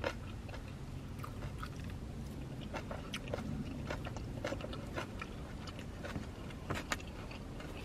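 A person chewing a mouthful of fried fast food close to the microphone, with many small scattered clicks over a low steady hum.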